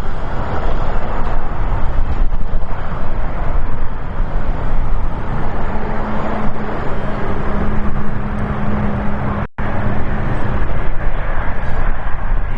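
Jet engine noise from a Boeing 777 freighter's GE90 engines on arrival, loud and steady. A low steady hum joins about five seconds in, and there is a split-second drop-out a little later.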